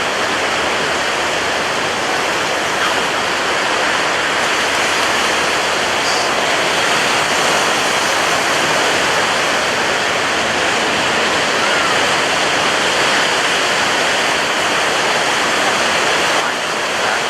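Ocean surf breaking on a beach: a dense, steady wash of water noise with no clear gaps between breakers.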